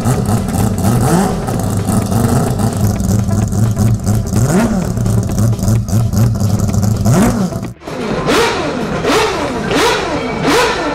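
High-performance car engine revving, its pitch rising and falling again and again. After a brief cut about eight seconds in come several quicker, sharper revs.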